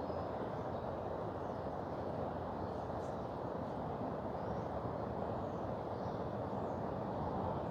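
A mountain river running steadily, with a few faint bird chirps above it.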